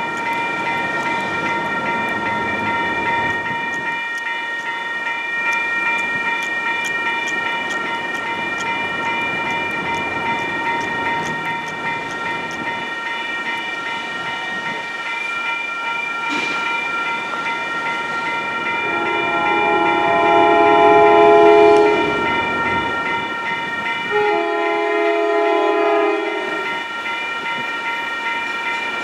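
Railroad grade-crossing warning bell ringing steadily as an MBTA commuter train approaches. About twenty seconds in, the train's multi-note air horn sounds a long blast, then a second long blast a few seconds later, the opening of the standard crossing signal.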